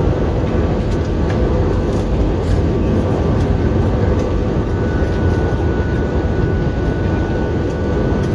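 Steady, loud rumble of a moving vehicle heard from inside, with a faint constant whine running through it.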